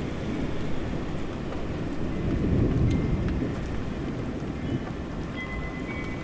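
Steady rain falling, with a low rumble of distant thunder that swells about halfway through.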